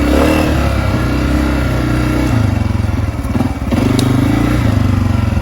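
Honda CRF250F's single-cylinder four-stroke engine running under load on a hill climb. It eases off briefly past halfway and then picks up again, with one sharp click about four seconds in.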